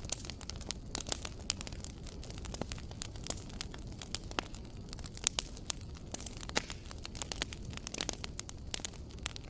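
Wood fire crackling: many sharp, irregular pops and snaps over a low steady rumble of the flames.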